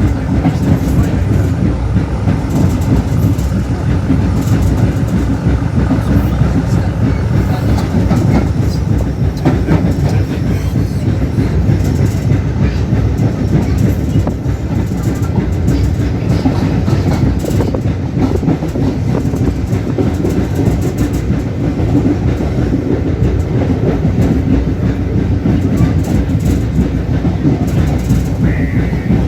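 Passenger train running along the line: a steady, loud low rumble of wheels on rails, with some clickety-clack from the rail joints.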